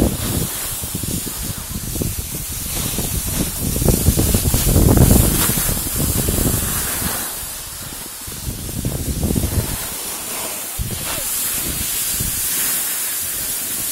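Wind noise on the microphone: a steady hiss with irregular low buffeting gusts, strongest about four to six seconds in.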